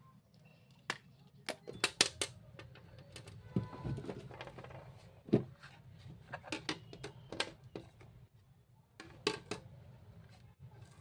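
Irregular clicks and light knocks of small hard objects being handled, a dozen or so strikes at uneven spacing, in a small room.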